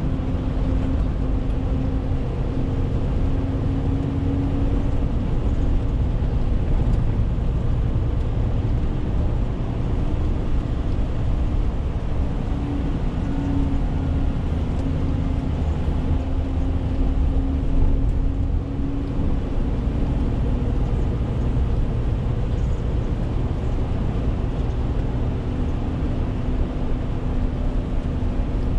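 Renault T520 truck's diesel engine running steadily while driving along, with a low road rumble and a steady hum whose pitch wavers only slightly.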